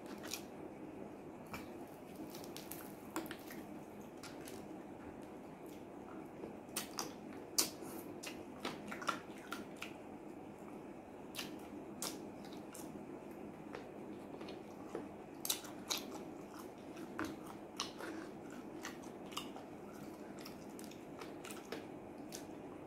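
Close-up eating of fried chicken and rice by hand: irregular wet chewing and short sharp mouth clicks and crunches, scattered through the whole stretch over a steady background noise.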